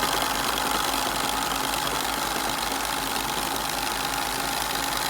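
Bing 130/542 toy live-steam engine running steadily: a fast, even mechanical beat over a constant hiss, with a steady tone through it.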